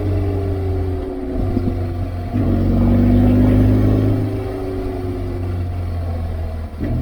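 BMW R1200GSA motorcycle's boxer twin engine running at road speed, heard from the rider's position with wind noise. About two seconds in it gets louder as the throttle opens, then its pitch slowly falls as it rolls off. The bike has a warning light on and seems to slow when rolling off, like a dragging brake, which the rider cannot explain.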